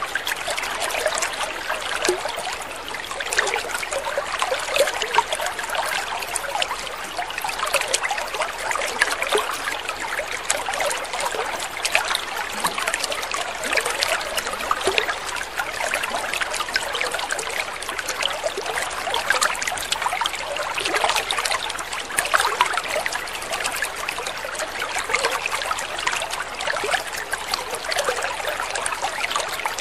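Water trickling and splashing steadily: a continuous babble of small drips and ripples with no pauses.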